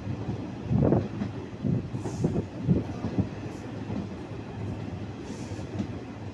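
Indian Railways intercity passenger coach running on the track, heard from its open doorway: a steady low rumble of wheels on rail with irregular clickety-clack knocks, the loudest about a second in.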